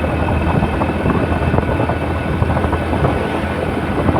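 Steady running noise of a vehicle on the move, a constant low hum under an even rushing noise.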